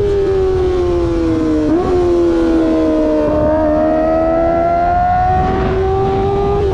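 Kawasaki ZX25R's 250 cc inline-four engine running at high revs while riding, with heavy wind noise. Its pitch eases down, hitches briefly a little under two seconds in, then climbs steadily.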